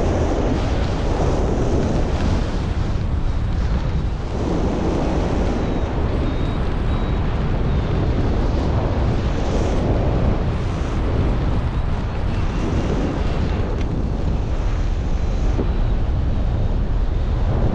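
Steady wind noise buffeting the microphone, from the rush of air during flight.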